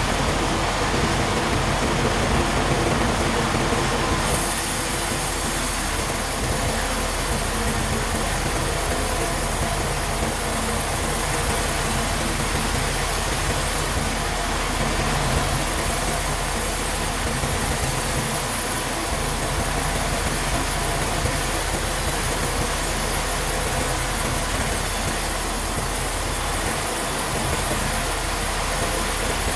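Steady din of running sawmill machinery, a continuous mechanical noise that shifts in tone about four seconds in.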